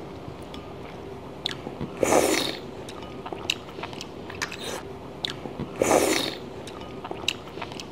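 A person biting into and chewing a piece of fresh Australian abalone, with two louder noisy mouthfuls, about two seconds in and again near six seconds, and small wet clicks in between.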